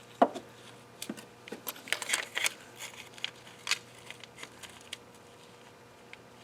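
Timing chain guide being flipped over and test-fitted against the engine's timing sprockets: light clicks, taps and scrapes of the part being handled, with a sharp click just after the start and a cluster of them around two seconds in, tapering off after about four seconds.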